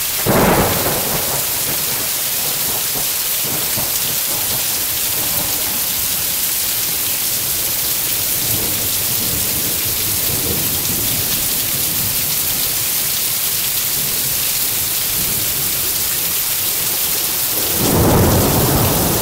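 Heavy downpour hissing steadily. Thunder rumbles briefly just after the start and again near the end.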